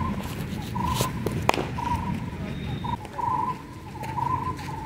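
A bird repeats a short, single-pitched call roughly once a second. A sharp knock about a second and a half in is the loudest sound, with a fainter click just before it.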